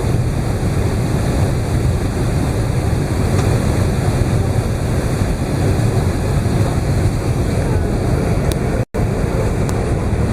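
Steady rumble and rush of an Airbus A380's cabin noise from engines and airflow, heard from inside the upper deck. It drops out for an instant about nine seconds in.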